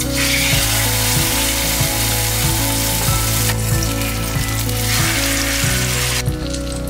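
Egg-dipped eggplant sizzling in hot oil in a stainless steel frying pan. The sizzle starts suddenly as it goes into the oil, eases a little about halfway, and drops away shortly before the end.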